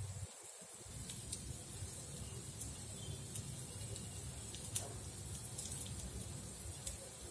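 Kofta balls sizzling faintly in a little oil in a non-stick appam pan, with occasional sharp oil pops about once a second over a low steady rumble.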